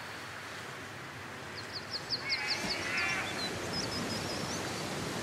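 Bird calls over a steady outdoor background noise. About one and a half seconds in comes a quick run of short high chirps, overlapped by harsher calls that are repeated a few times.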